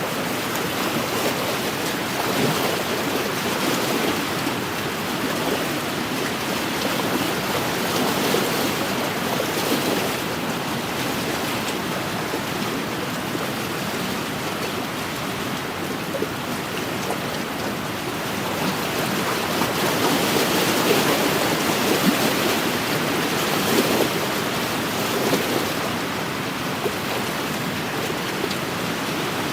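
Wind-driven waves on a lake washing against the shore, with wind: a steady rushing noise that swells a little now and then, most around twenty seconds in.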